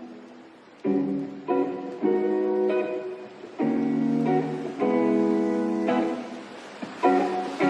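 Background music: acoustic guitar strumming chords, each struck sharply and left to ring out, about one every second or so.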